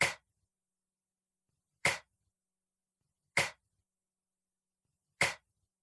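A voice making a short, breathy, voiceless phonics consonant sound, the letter Q's /k/ sound, four times about a second and a half to two seconds apart.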